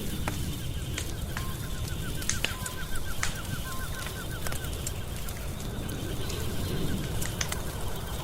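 Wood fire burning in a fireplace: a steady low rumble with frequent sharp crackles and pops. In the first half, a fast, faint run of small high chirps repeats several times a second alongside it.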